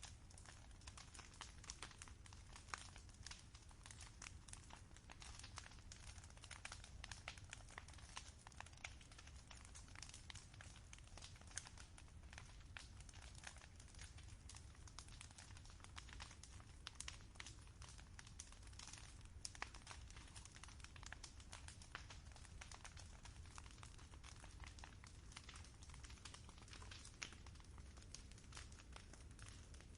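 Campfire crackling faintly, with many small irregular pops and snaps over a low steady rumble.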